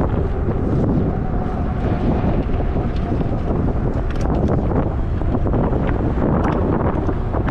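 Wind rushing over the microphone while riding a fat-tire e-bike at speed, a steady low rumble, with a few light ticks.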